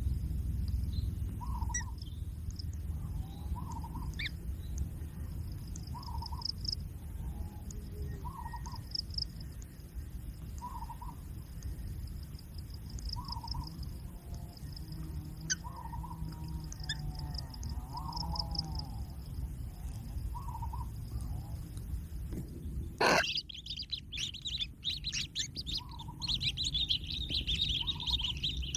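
Birds calling: a soft note repeating about every second and a half, with scattered high chirps. A sharp knock comes about 23 seconds in, and dense high chattering follows to the end.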